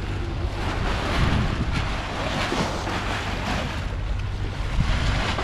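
Wind buffeting the microphone over the rush of water along a sailboat's hull, with a steady low rumble underneath.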